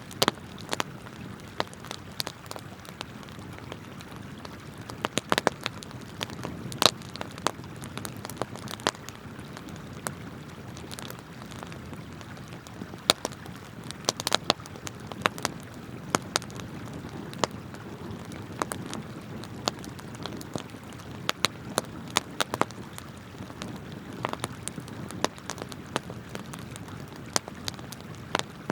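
Wood campfire crackling and popping, with sharp irregular snaps scattered throughout, over a steady rush of flowing river water.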